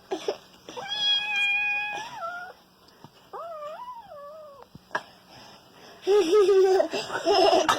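A cat meowing with long, drawn-out calls: one held call about a second in and a second, wavering one in the middle. Louder wavering vocal sounds follow near the end.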